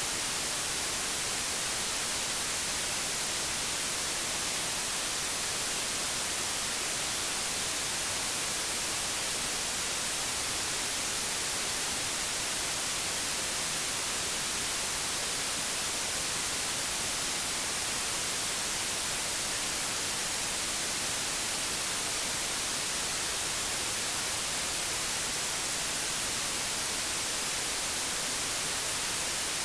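Television static: a steady, unbroken hiss, strongest in the high frequencies.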